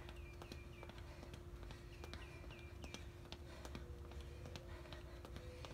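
Faint bird chirps in the yard: short, quick downward notes, a run of about four at the start and another about two seconds in, over a steady low hum.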